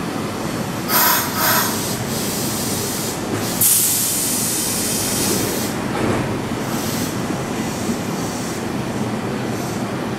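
A Kyoto Municipal Subway electric train rolls slowly to a stop at the platform, with a steady wheel rumble. Short wheel squeals come about a second in and again half a second later. A sudden loud hiss starts about three and a half seconds in and lasts about two seconds.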